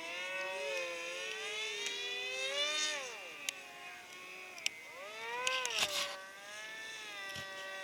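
RC model airplane motors and propellers whining in flight, their pitch gliding up and down as the planes turn, climb and pass by. There are a few short clicks around the middle.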